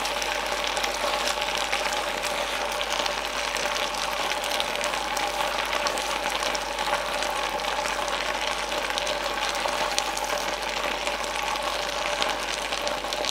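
Pasta in a creamy cheese sauce and turkey sizzling and bubbling steadily in a double electric frying pan on high heat, stirred with tongs and a wooden spatula.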